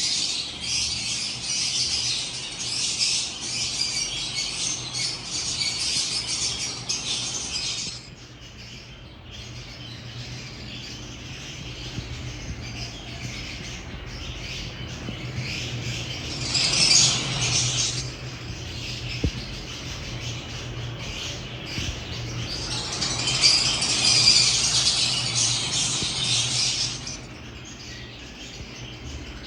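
A flock of lovebirds chattering with shrill chirps and squawks. The chatter is loud and dense for about the first eight seconds, flares briefly around seventeen seconds, and swells again from about twenty-three to twenty-seven seconds, with softer chirping in between.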